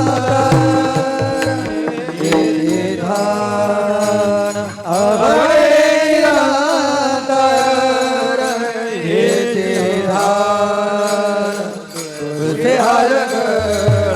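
A male voice singing a long, drawn-out melodic passage of a Marathi devotional kirtan song (an abhang), with no clear words and with tabla strokes in about the first second.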